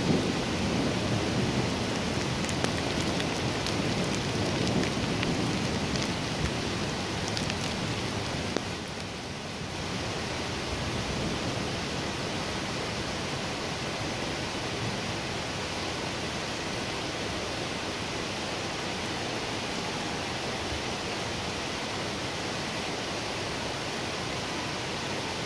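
Heavy rain pouring steadily on trees during a thunderstorm, with the low rumble of thunder dying away over the first several seconds and a few sharp ticks of drops; after that only the even hiss of the downpour.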